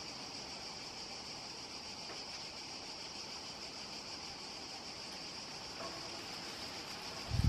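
Steady outdoor background hiss with a constant high-pitched band in it, no bird calling; a low thump near the end.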